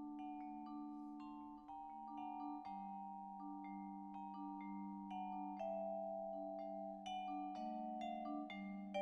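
Instrumental music: a mallet percussion instrument plays quick struck notes over held low notes.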